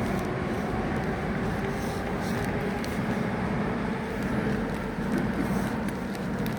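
Steady rumble of a train running past, with faint tones that fade over the first few seconds.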